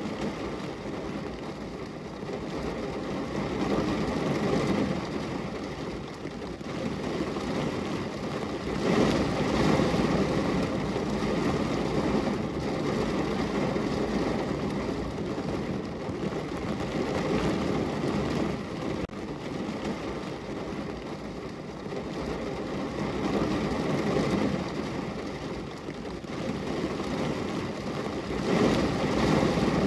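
Steady rain against a window: a continuous low rushing hiss that swells and eases several times.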